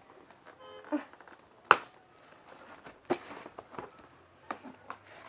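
Packing tape and a cardboard box being pulled and worked at by hand: scattered crackles and clicks, with a sharp snap about a second and a half in and another around three seconds, and a brief squeak near the start.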